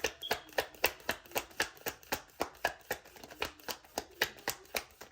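A tarot deck being shuffled by hand: a quick, even run of card slaps and flicks at about five a second.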